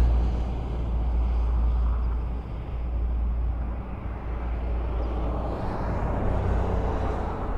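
Highway traffic: a continuous low rumble of passing cars and tyres on the road, swelling and easing as vehicles go by.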